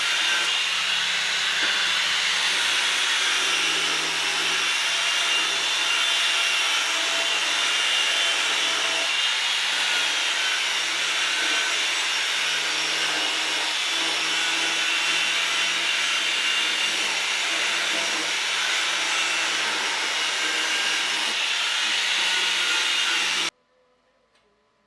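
Steady, loud hissing whir of an electric motor-driven machine, cutting off suddenly near the end.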